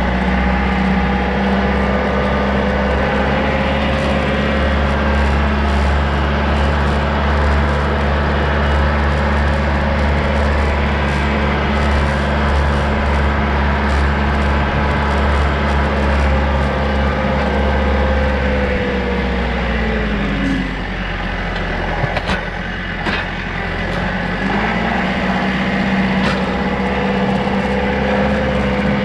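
Rural King RK55 tractor's diesel engine running loud and steady, driving a Woodland Mills WG24 PTO stump grinder. About two-thirds of the way through, the engine pitch drops and a few sharp knocks are heard. The engine then climbs back to its earlier pitch near the end.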